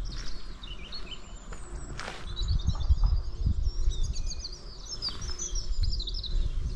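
Small birds singing, a steady run of quick, high chirps and trills, over a low rumble with irregular low thumps.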